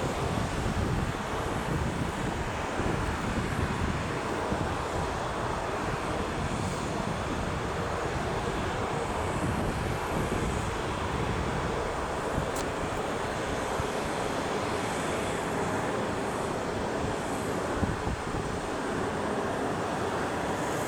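Business jet engines running, a steady rumbling jet noise that holds an even level throughout.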